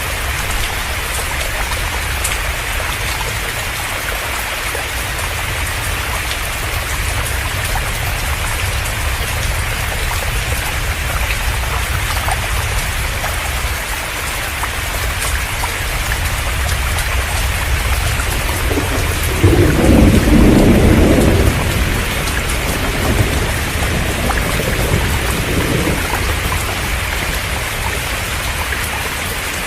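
Heavy rain pouring steadily. About twenty seconds in, a low rumble of thunder swells, loudest for about two seconds, then trails off over several more.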